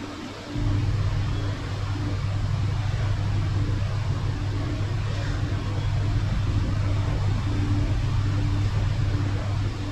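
A steady low mechanical hum, like an engine or motor running, that starts about half a second in. A fainter tone above it pulses on and off at an even pace.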